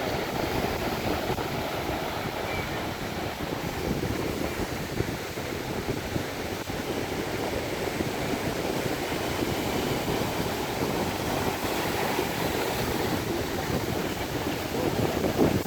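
Sea waves washing against the shore in a steady rush, with wind blowing on the microphone.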